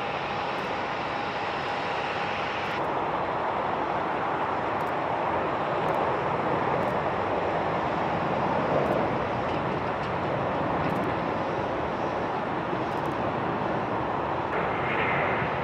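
Jet airliner engine noise at the airport, a steady rush that swells slightly around the middle. A faint steady whine stops about three seconds in.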